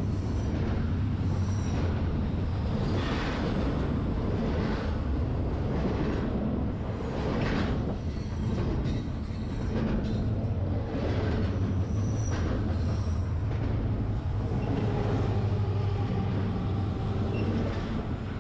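Freight train rolling around a tight curve: a steady low diesel-locomotive rumble, with irregular rushes of wheel and car noise and a faint high wheel squeal now and then.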